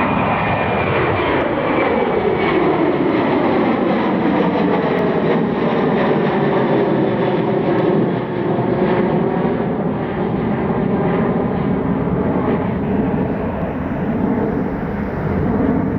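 Jet engines of a Boeing 737 airliner passing by, a loud steady roar with a sweeping, phasing whoosh as it goes past.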